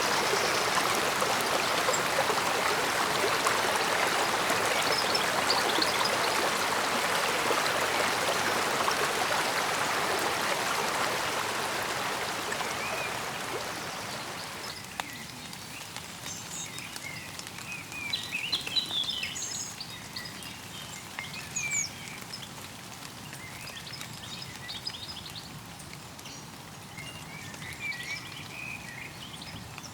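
Mountain stream babbling and rushing steadily, then fading down about halfway through. Scattered short bird chirps follow over a quiet outdoor background.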